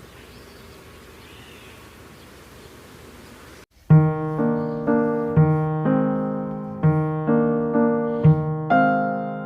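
Faint outdoor ambience for the first few seconds, cut off abruptly, then gentle piano music with repeated chords starting about four seconds in.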